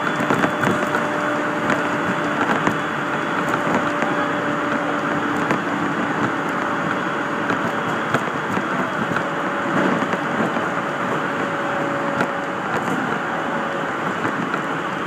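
Interior running noise of a JR 701 series electric local train at speed: a steady rumble and rattle of wheels on rail, with faint steady hum tones and scattered light clicks.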